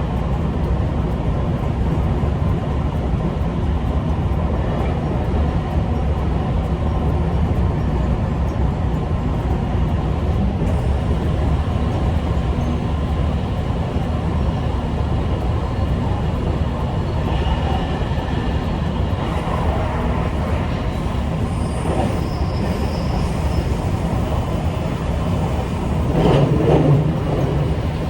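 Electric train running on rails, heard from on board: a steady low rumble of wheels and running gear, swelling briefly louder near the end.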